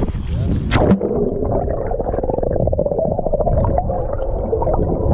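Boat's outboard motor running at low speed with a rapid, bubbling pulse. There is wind on the microphone and a sharp click in the first second.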